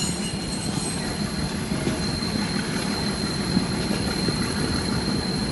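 Nilgiri Mountain Railway toy train heard from on board as it runs along the metre-gauge track: a steady rumble and rattle of the carriage and wheels, with a thin, steady high tone over it.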